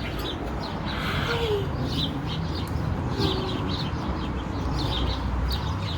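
Birds in an aviary chirping: many short, high chirps repeating about every half second over a steady low rumble.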